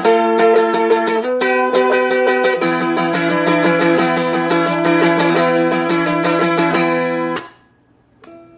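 Seagull Merlin, a four-string strumstick-style dulcimer, strummed quickly with its drone strings ringing under the melody. The playing stops abruptly a little over seven seconds in, and one faint note rings near the end.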